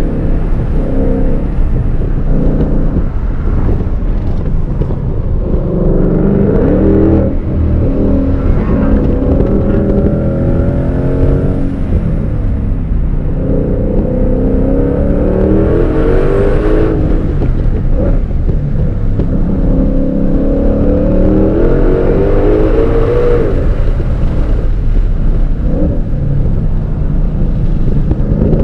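2022 Shelby GT500's supercharged 5.2-litre Predator V8, heard from inside the cabin, pulling hard through several runs on track. Its pitch climbs on each pull, then falls away sharply when the throttle comes off or the car shifts, over steady road and wind noise.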